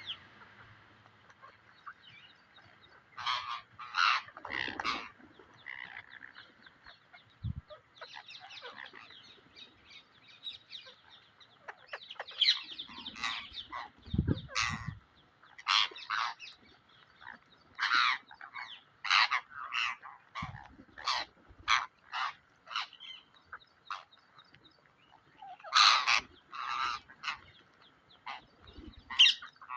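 Pet Psittacula parrot calling: many short, separate squawks, some coming in quick runs of two or three.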